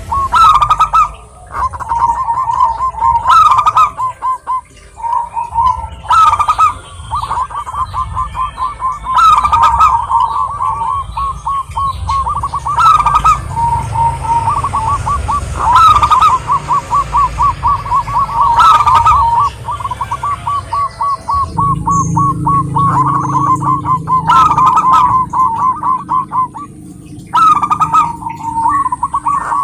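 Zebra doves (perkutut) cooing: a long run of rapid, staccato notes at a steady pitch, with a louder, higher note breaking in about every three seconds.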